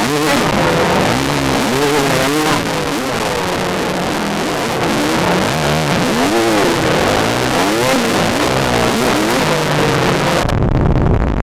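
Yamaha dirt bike engine revving up and down as it is ridden on a trail, its pitch climbing and falling every second or so with the throttle, over a steady rush of wind noise. About a second before the end the sound turns abruptly duller, leaving a low rumble.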